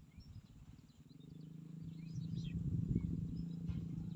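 Scattered bird chirps and short calls, with a low steady hum that builds from about a second in.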